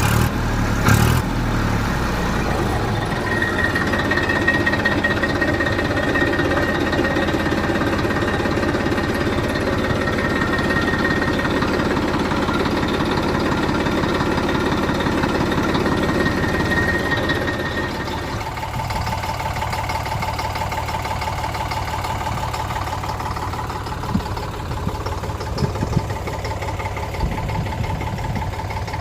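Diesel tractor engine running steadily. About two-thirds of the way through, the engine sound changes character.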